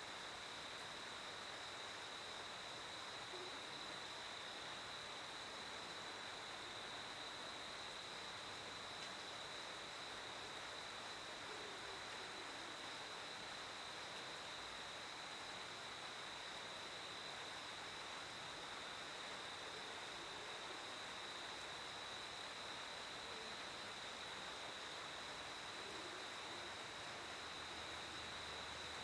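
A cricket trilling in one unbroken, steady high-pitched tone over a faint, even hiss.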